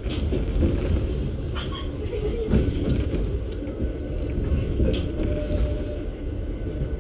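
Narrow-gauge commuter train running on the line, heard from inside the car: a steady low rumble of wheels on rails, with a few sharp clicks and squeals.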